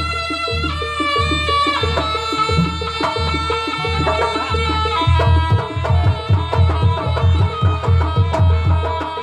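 Javanese jaranan ensemble music: a held, pitched melody over a fast drum beat with deep thumps and sharp strikes.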